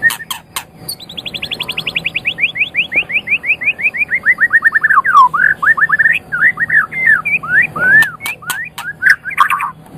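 White-rumped shama singing: a long run of rapid repeated notes sliding down in pitch over about four seconds, then varied whistled phrases with sharp clicks near the start and near the end.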